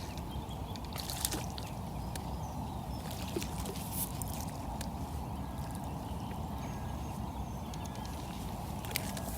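Steady rush of flowing river water, with a few faint clicks and small splashes.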